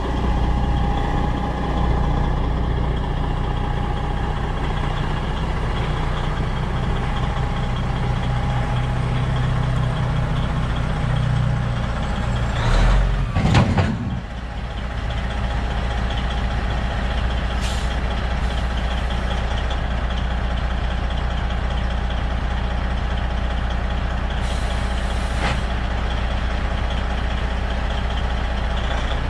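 Old Freightliner semi truck's diesel engine running steadily, with a brief louder burst about halfway through and a couple of short hisses later on.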